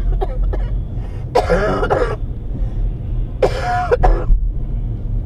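A person coughs or clears their throat twice, in two short bursts about two seconds apart, over a steady low vehicle rumble.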